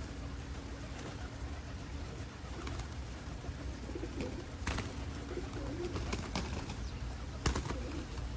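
Pigeons cooing in low, soft warbles, with a few sharp taps, the loudest near the end, over a steady low rumble.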